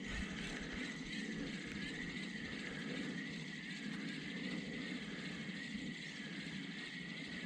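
Steady rushing of creek water, with a high whir that swells and fades about once a second.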